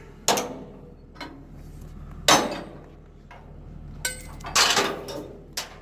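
Sharp metallic clanks, about four or five, each ringing briefly, from load chains and a chain binder being worked with a cheater bar to tighten the chains over the logs. A low steady hum runs underneath.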